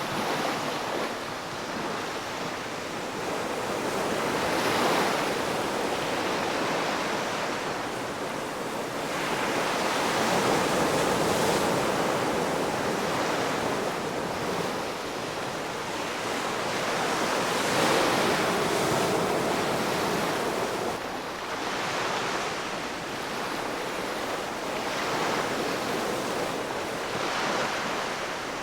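Ocean surf: waves breaking and washing up the shore in a continuous hiss that swells and eases, with bigger surges about 5, 11 and 18 seconds in.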